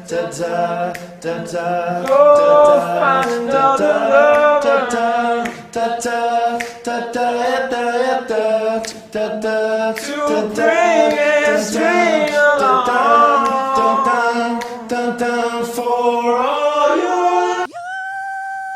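Several voices singing a cappella in harmony, with sliding pitches over a held low note and frequent sharp clicks. Near the end it cuts abruptly to a single steady held note.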